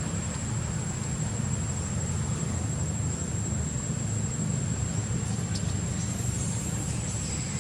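Steady outdoor background: a low rumble with a constant thin high-pitched whine over it, and a few faint short noises near the end.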